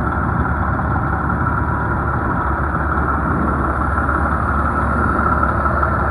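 Detroit Diesel Series 60 inline-six diesel engine of a Pierce Quantum fire truck idling steadily.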